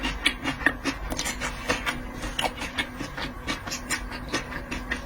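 Close-miked seafood eating: a rapid, irregular run of small clicks and smacks from chewing and handling shellfish, over a faint steady hum.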